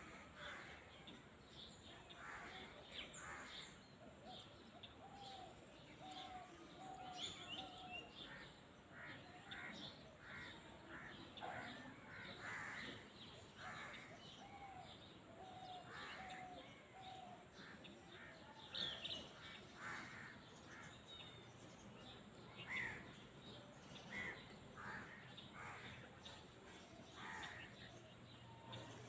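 Faint bird calls: many short, harsh calls scattered throughout, with two runs of short, clear, evenly spaced notes.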